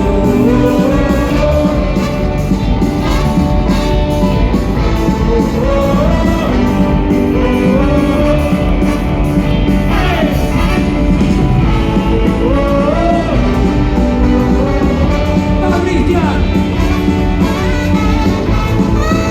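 Rock band playing live at full volume, mostly instrumental, with a lead melody that slides up and down in pitch over the full band.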